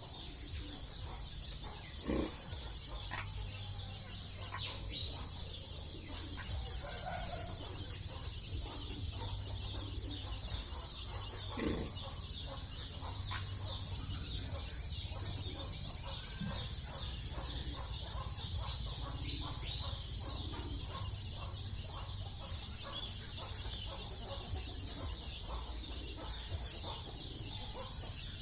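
Steady insect chorus trilling without a break, with a few faint short chicken calls and a couple of soft knocks over a low hum.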